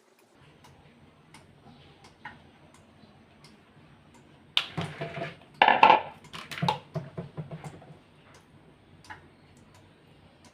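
Kitchen utensils and dishes clattering: scattered light clicks, then a dense run of loud knocks and clatter from about four and a half to eight seconds in.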